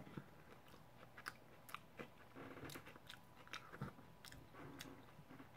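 Faint chewing of a mouthful of crispy fried taco, with scattered soft crunches and mouth clicks.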